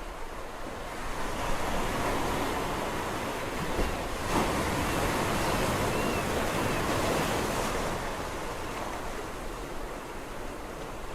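Sea waves breaking and washing up a shore: the surf swells about a second in, stays loudest for several seconds, then eases off near the end.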